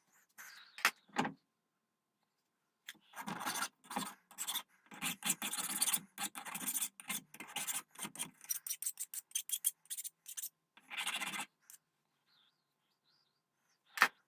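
Hand file strokes on brass, a run of short irregular scraping strokes that come quicker for a while, then stop. A single sharp knock near the end.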